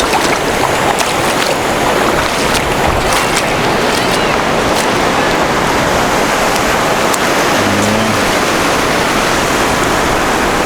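Sea surf washing onto the shore, a steady loud rush of waves.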